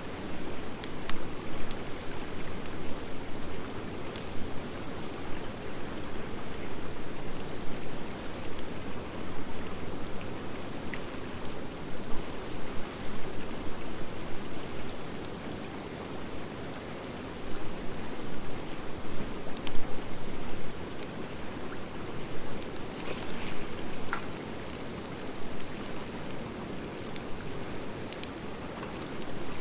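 Wood fire of driftwood and dry hardwood logs burning: a steady rushing hiss with scattered sharp crackles and pops, more frequent toward the end.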